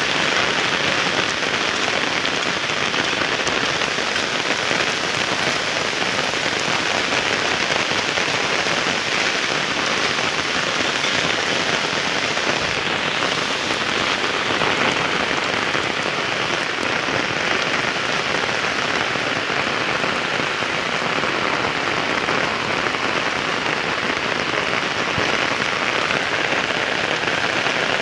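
Heavy downpour falling steadily on a road and the ground, a dense, even hiss that does not let up.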